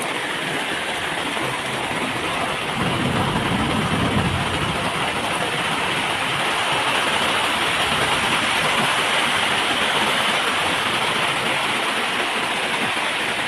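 Heavy rain pouring down hard and steadily, with a low rumble swelling about three seconds in.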